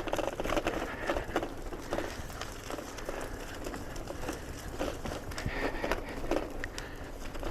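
Bicycle rolling along a rough trail: tyres crunching over the surface and the bike rattling in irregular clicks and crackles, over a steady low rumble.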